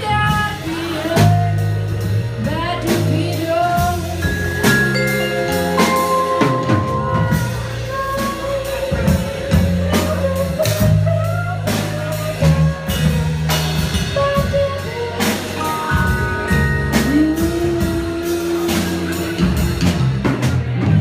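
Live band playing an instrumental passage between sung verses: a moving bass line and a drum kit under a melodic lead line that bends and slides between notes.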